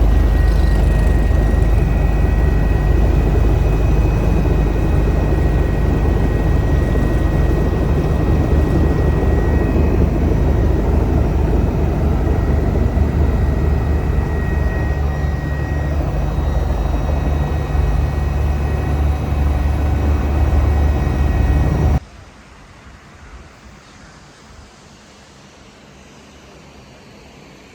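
Eurocopter EC145 twin-turbine helicopter in flight: a steady, loud rotor and engine rumble with a thin high turbine whine over it. About 22 seconds in it cuts off suddenly, leaving a much quieter steady hiss.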